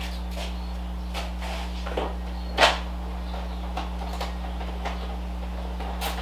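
Scattered light clicks and knocks of objects being handled, with one louder clunk about two and a half seconds in, over a steady low hum.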